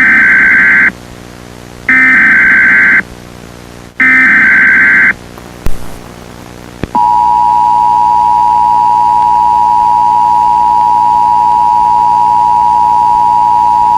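Emergency Alert System broadcast opening: three one-second bursts of screeching digital header data, a second apart, followed about seven seconds in by the steady two-tone attention signal. Together they announce an emergency alert, here a tornado warning.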